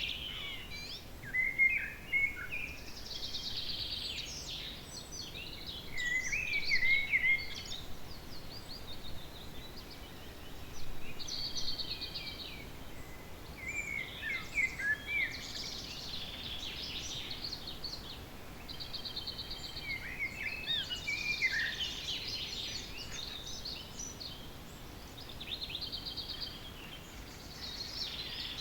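Several songbirds singing in a dawn chorus: short trilled and warbled phrases, each a second or two long, with a new phrase every few seconds, over a faint steady background hiss.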